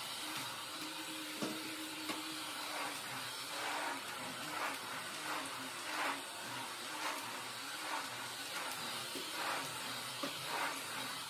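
Household vacuum cleaner running steadily, with a swish every half second to a second as it is pushed back and forth over the floor.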